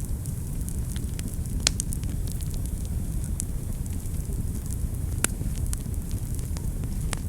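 Wood fire burning in a fireplace: a steady low rumble of flames with scattered sharp crackles and pops, the strongest a little under two seconds in and about five seconds in.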